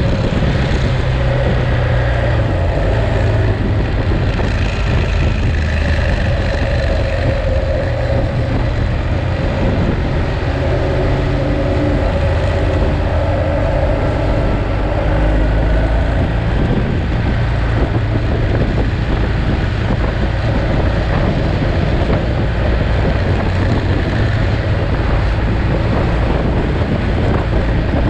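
Ducati Monster's V-twin engine running steadily while the motorcycle is under way, with wind buffeting the microphone.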